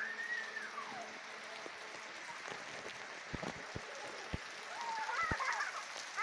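Steady rain falling, with a few sharp drips knocking in the middle. A high call rises and falls about a second long at the start, and a jumbled squawking chatter comes near the end.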